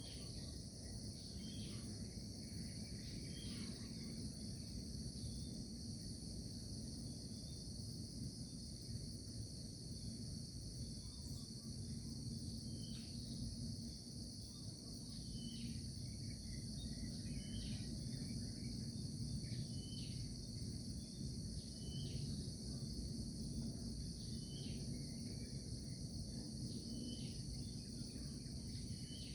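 A steady chorus of insects trilling, typical of crickets, with short falling bird calls repeating every two seconds or so. Underneath runs a low rumble of background noise.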